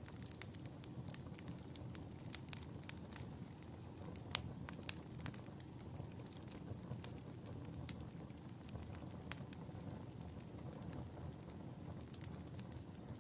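Wood fire burning in a fireplace: a steady low rumble of flames with frequent irregular sharp crackles and pops, the loudest pop about four seconds in.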